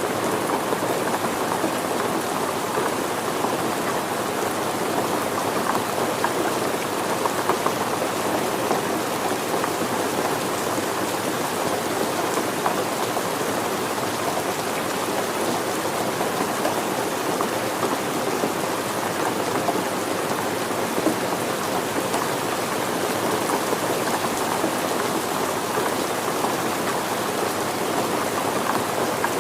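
Steady rain falling on surfaces, a dense patter of many drops without let-up.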